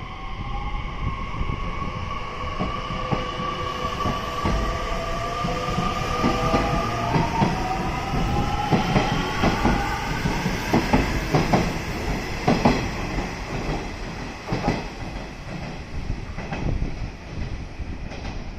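Electric train pulling away: its motor whine rises slowly in pitch while the wheels clack over rail joints, the clacks getting quicker and louder about halfway through.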